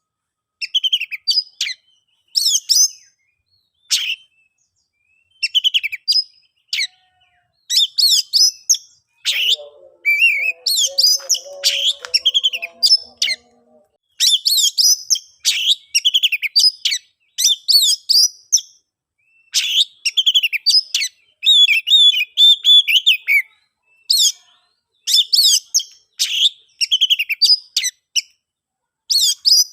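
Oriental magpie-robin singing in short, high-pitched phrases of varied whistles and chattering notes, with brief pauses between phrases. A fainter, lower-pitched sound runs under the song for a few seconds near the middle.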